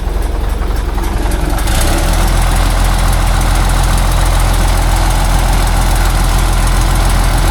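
Heavy logging truck's diesel engine running. About two seconds in it picks up into a louder, rougher, steady pull under load.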